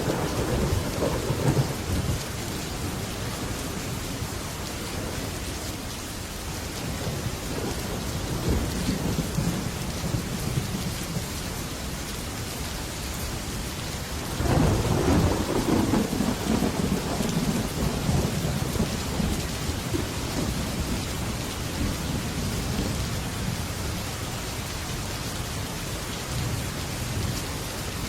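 Heavy rain drumming steadily on a metal roof, with thunder rolling through it: a rumble fading at the start, a softer roll a third of the way in, and the loudest clap breaking suddenly about halfway through and rumbling on for several seconds.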